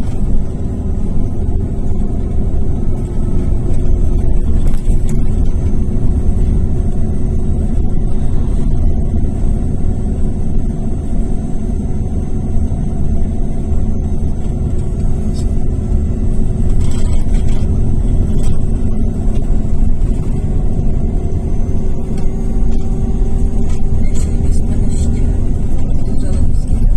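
Irisbus Crossway 12M coach's Iveco Cursor F2B inline-six diesel running steadily under way, with a heavy low rumble and an engine note that drifts slowly up and down. Heard from inside the bus, with road noise mixed in.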